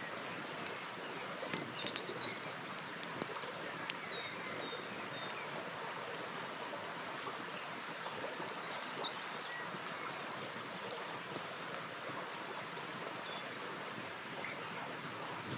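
River water flowing steadily, with a few sharp crackles and pops from a burning campfire, the loudest within the first four seconds. Short, faint high chirps are scattered throughout.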